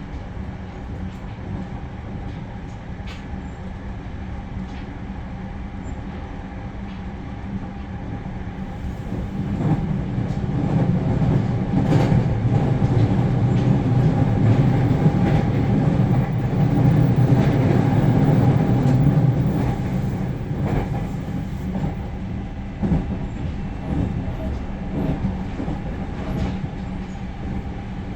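Inside a JR Central 315 series electric train running at speed: a steady rumble of wheels on rail with occasional sharp clicks. The rumble swells about a third of the way in and eases again near the end.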